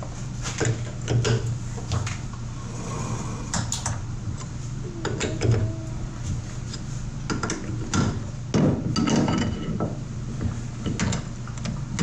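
Hand tools clanking and knocking against steel cylinder parts, a string of irregular sharp knocks and clicks, over a steady low shop hum.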